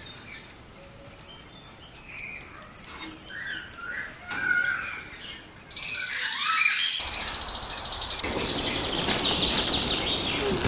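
Lovebirds chirping: scattered short calls at first, then a louder, dense chatter of many birds from about seven seconds in.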